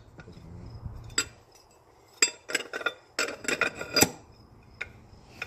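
Metal transmission parts clinking and clicking against each other as they are handled, in quick clusters of sharp clinks.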